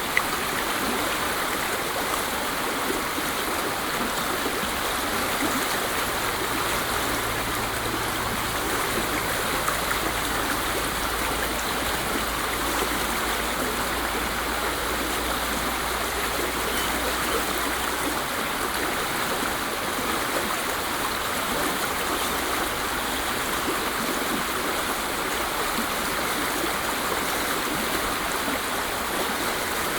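Waterfall: a steady, unbroken rush of falling water. A faint low hum sits beneath it from about five seconds in until around eighteen seconds.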